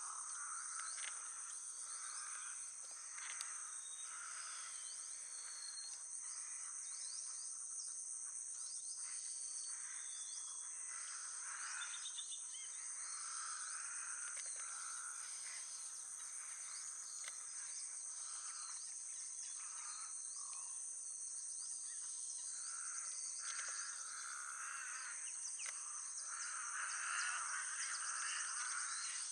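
Outdoor wetland ambience: a steady, high-pitched insect drone throughout, with scattered bird chirps and calls over it, a little busier near the end.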